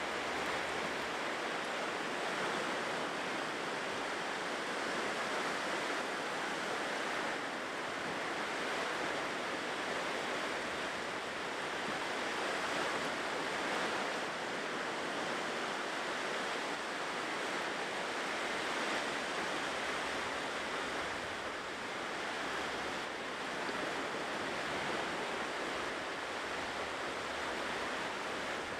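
Ocean surf washing on a shore: a continuous rush of breaking waves that swells and eases only slightly.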